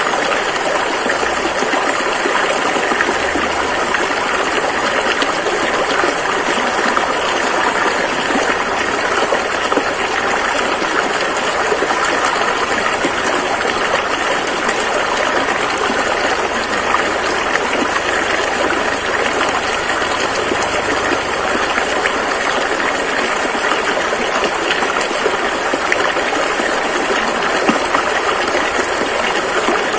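Rushing river water flowing steadily over rocks, a dense, even gush with no breaks.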